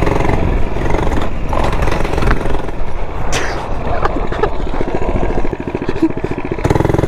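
A 99cc four-stroke mini bike engine running under throttle while being ridden, its note rising and falling with the throttle. Near the end it changes abruptly to a steadier, even note.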